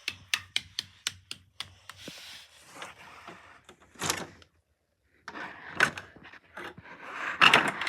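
Plastic toys being handled: a quick run of regular clicks, about four a second, for the first second and a half, then rustling and knocks, with a louder cluster of knocks near the end.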